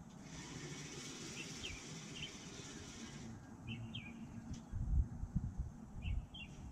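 Birds chirping, a few short chirps every second or two. About halfway through come irregular low gusty rumbles, the loudest sound.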